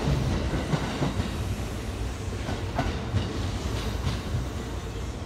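Kintetsu electric commuter train running away over a junction of points, its wheels clacking over the rail crossings and joints beneath a low rumble that grows fainter.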